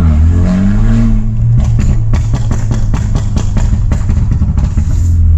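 Straight-piped, Stage 2 tuned BMW F30 328i's turbocharged four-cylinder revving, then crackling with a rapid string of exhaust pops and bangs for about three seconds as the revs come down, before the steady engine drone returns. The pops are the tune's deliberate overrun pops and bangs.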